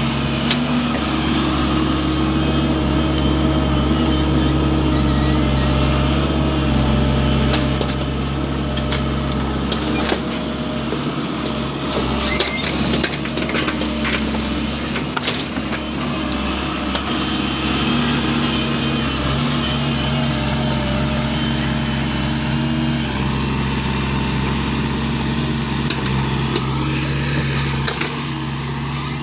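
Excavator engine running hard while digging earth, its note dropping and rising a few times as the load changes, with a cluster of sharp clanks and knocks about halfway through.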